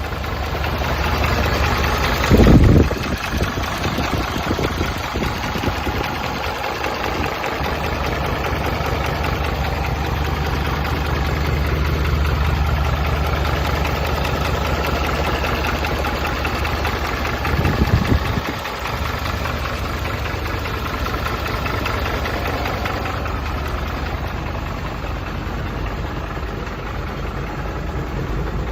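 Diesel engine of a final-model UD Condor 4-ton truck (Hino-built engine) idling steadily, with two brief louder low bursts, one about two seconds in and one about two-thirds of the way through.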